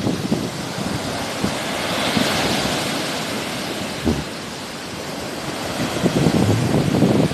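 Sea waves washing in, a broad hiss that swells about two seconds in and then eases, with gusts of wind rumbling on the microphone near the end.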